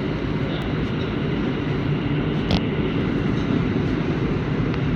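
R160 subway train running through the tunnel, heard from inside the car: a steady low rumble of wheels on rails, with one sharp click about two and a half seconds in.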